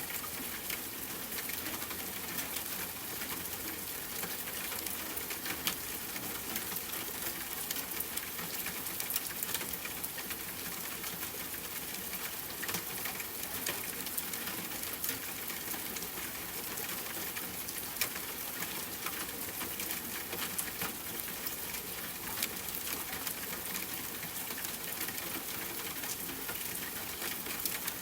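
Steady rain falling, an even hiss dotted all through with small sharp ticks and crackles, mixed with a campfire.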